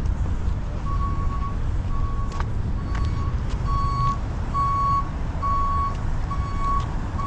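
Vehicle reversing alarm beeping steadily, a single high tone repeating a little faster than once a second, starting about a second in, over a low idling engine rumble.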